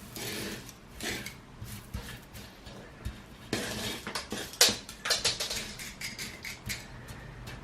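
Rustling, scraping and clinking from repotting a cactus: top dressing being spread and the pot being handled, with several sharp clinks, the loudest a little past halfway.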